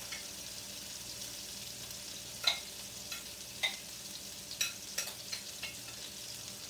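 Beef burgers sizzling in a frying pan: a steady hiss with sharp clicks and pops every half second or so.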